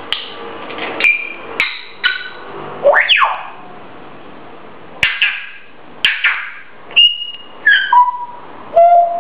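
Grey parrot screeching, a string of loud, abrupt calls roughly a second apart. One call sweeps sharply upward about three seconds in, and the calls near the end are clear whistled notes.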